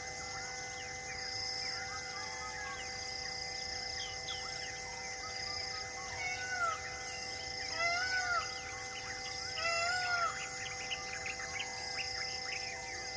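Many birds chirping and calling throughout, with louder, arching calls about six and a half, eight and ten seconds in, over a background of steady held tones.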